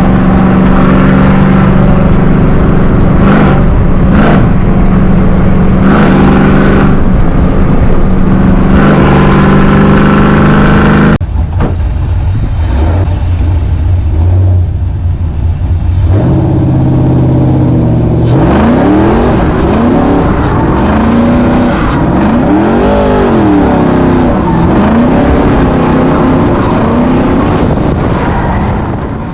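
Pickup truck's newly fitted performance exhaust running steadily, then revved up and down several times in the second half.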